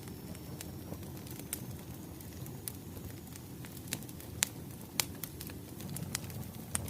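Wood fire crackling: a steady low rumble with scattered sharp pops, the loudest two about four and a half and five seconds in.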